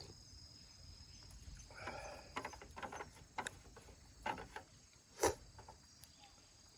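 Insects chirping in a steady high drone, with a string of short clicks and knocks in the middle, the loudest one about five seconds in.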